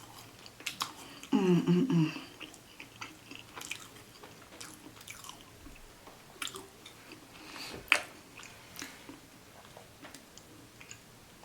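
Close-up chewing of a KFC donut chicken sandwich: scattered wet mouth clicks and soft crunches, with a brief hummed voice sound about a second and a half in and a sharper click near eight seconds.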